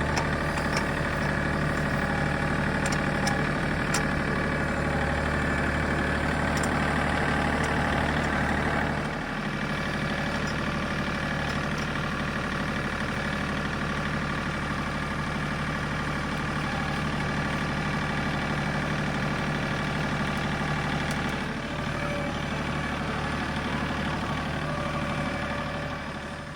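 John Deere 3 series compact tractor's diesel engine running steadily, dropping a little in level about nine seconds in.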